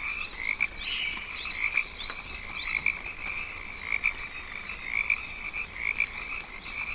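Rainforest frog chorus: a steady high trill that pulses about once or twice a second. Over it comes a run of short, high rising chirps, about two a second in the first half, and a couple more near the end.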